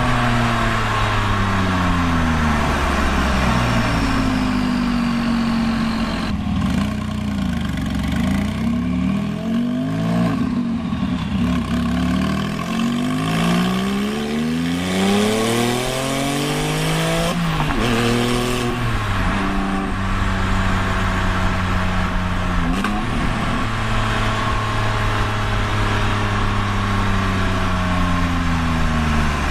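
Straight-piped exhaust of a 2001 Porsche 996 911 Turbo's twin-turbo flat-six being driven hard, climbing in pitch under acceleration and dropping sharply at gear changes, with steadier stretches in between.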